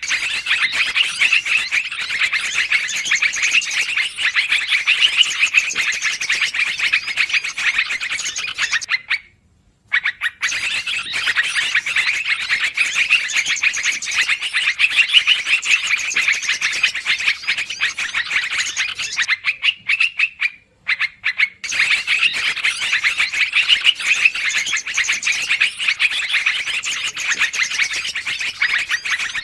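Trucukan (yellow-vented bulbul) calls played as a bird-trapping lure: a dense, noisy run of rapid overlapping chirps from several birds. It stops briefly twice, about a third and two-thirds of the way through.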